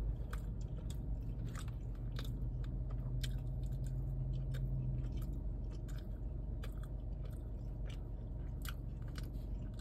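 A person chewing a mouthful of kimchi fries and spicy pork close to the microphone, with many small, sharp wet mouth clicks.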